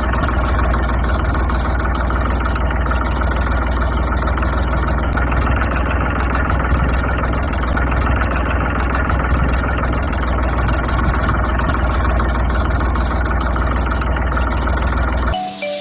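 Engine idling steadily with a strong low hum, cutting off suddenly near the end.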